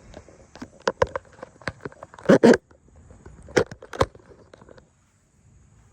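A scatter of sharp clicks and knocks, the loudest a quick double knock a little over two seconds in and two more knocks around three and a half and four seconds.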